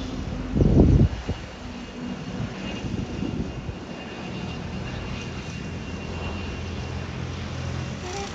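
Embraer ERJ-145 regional jet's turbofan engines running steadily with a low hum and a faint high whine. A brief, loud low rumble comes about half a second in.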